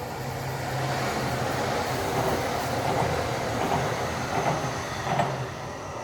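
Electric train going by: a steady low hum under rising rail and wheel noise, with a few louder knocks as the wheels cross rail joints.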